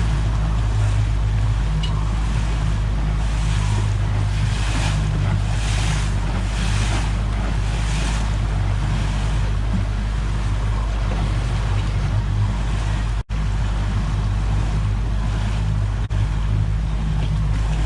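Outboard motor running under way with the boat's hull pushing through choppy water, a steady low rumble with swells of splash and spray noise, and wind on the microphone.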